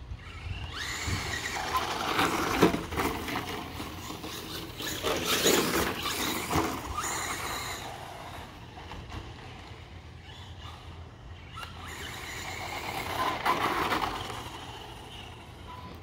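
Brushless motor and metal-gear transmission of an ECX Torment 1/10 RC monster truck, whining as the truck accelerates in several bursts, with tyre noise on the ground. The pitch rises with speed, and there are three main surges about a second in, around five seconds in and near the end.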